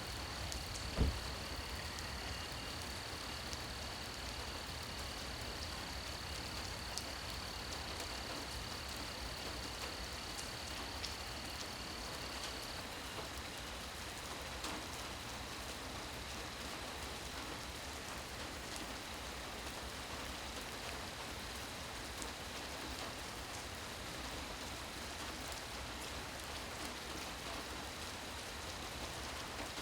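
Steady rain falling, with scattered drips ticking through it. A high, steady insect call runs under the rain and stops about 13 seconds in, and a single low thump sounds about a second in.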